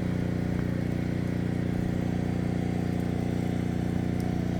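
An engine running steadily at a constant speed, an even hum.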